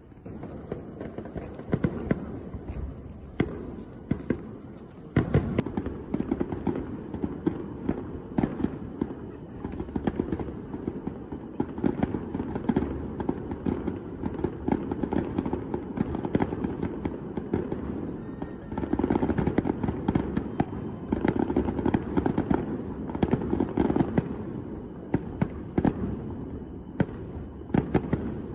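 Fireworks display: a dense, continuous run of sharp bangs and crackling bursts over a steady rumble, thickening about five seconds in and again past the middle.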